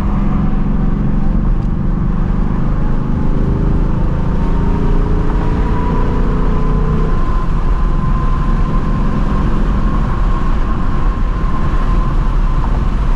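Stock 2024 Ford Mustang GT's 5.0 L V8 exhaust while driving, its active exhaust in track mode. The engine note climbs a little from about two seconds in, then eases back to a steady cruising drone about halfway through.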